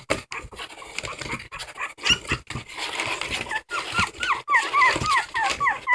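A dog whining: a quick run of short, high cries, each falling in pitch, starting about halfway through, after a few seconds of scattered knocks.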